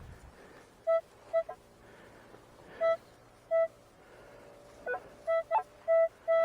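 Metal detector giving short, same-pitched signal beeps as the coil passes over a target: a few spaced beeps, then a quicker run of them near the end.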